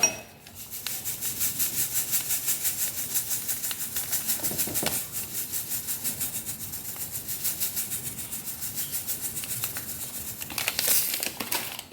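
Dry instant yeast granules being shaken out in a rapid, even rattle of about four or five shakes a second. The shaking starts just under a second in and stops shortly before the end.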